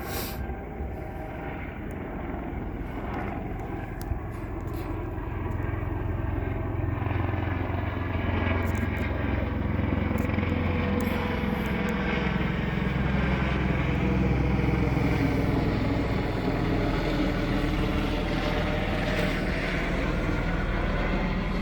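Helicopter flying nearby, its engine and rotor sound growing louder about a third of the way in and then holding steady, with its tones slowly bending in pitch as it moves.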